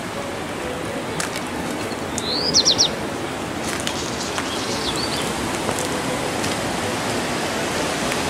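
A bird calling: a short rising note followed by a quick run of three or four high chirps about two and a half seconds in, and a fainter chirp around five seconds, over a steady outdoor noise.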